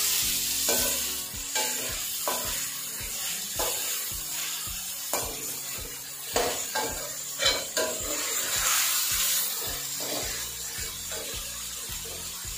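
Boneless chicken cubes sizzling as they fry in oil in a metal karahi, stirred with a perforated metal skimmer that scrapes and knocks against the pan, with a few sharper knocks midway.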